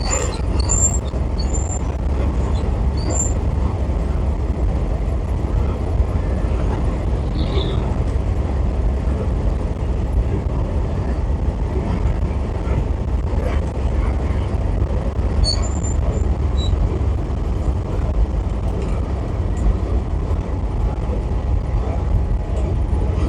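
Steady low rumble of road and engine noise from a camper driving along the highway.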